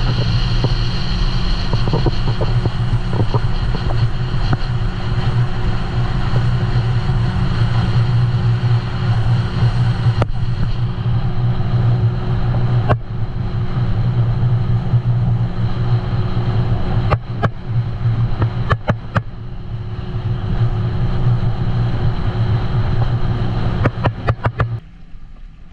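Jet ski engine running steadily at speed under way, with rushing noise and a few sharp knocks over it; the engine sound drops away suddenly near the end.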